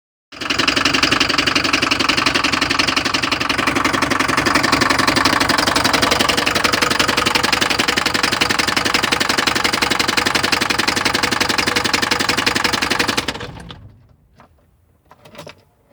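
Mercedes-Benz OM601 four-cylinder diesel engine idling with a fast, steady knocking, which the owner puts down to the timing chain or its tensioner after a rebuild. The engine is shut off about two seconds before the end, leaving a couple of faint clicks.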